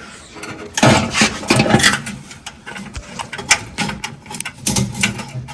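Irregular sharp metallic clicks and light clatter of hand tools and a steel brake line being worked, with a scraping stretch about a second in.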